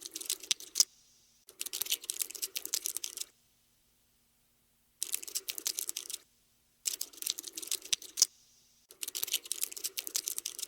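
Cockroach scuttling sound effect: bursts of rapid, dry clicking and scratching, each lasting one to two seconds, with short silent gaps between them, five bursts in all.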